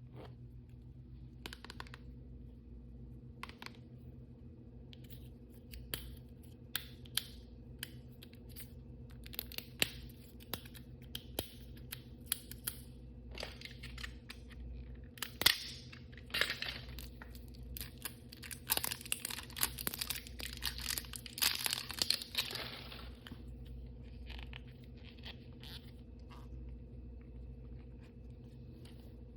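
Hands tearing and crinkling open plastic blind-bag packaging, with scattered sharp clicks and taps of small hard pieces. The crinkling is densest about two-thirds of the way through.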